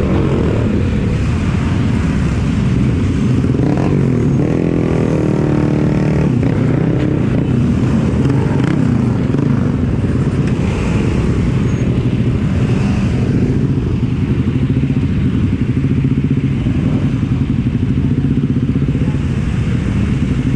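Motorcycle engine running steadily under load, with a brief change in engine note about four to six seconds in.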